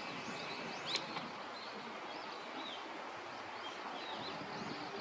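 Small songbirds chirping: many short, high chirps overlapping over a steady outdoor background hiss, with a single sharp click about a second in.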